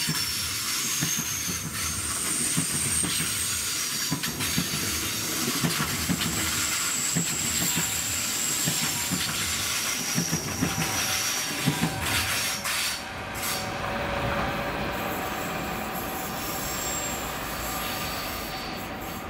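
Deutsche Bahn ICE 3 (class 406) high-speed electric train running past and pulling away on a curve. Its wheels rumble and click over the track, with thin high-pitched wheel squeal on the bend, and the sound fades over the last several seconds.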